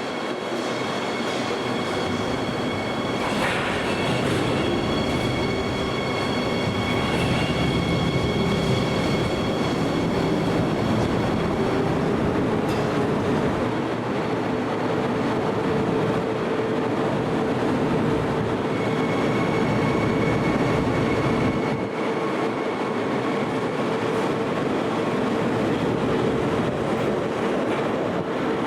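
Electric locomotive-hauled passenger train running steadily for the whole stretch, with dense rolling noise and high squealing tones over it. A hum rises slightly in pitch over the first dozen seconds, then holds steady.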